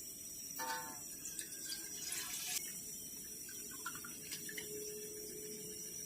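Water splashing and pouring briefly, with a few clinks and knocks, as cooking is being prepared.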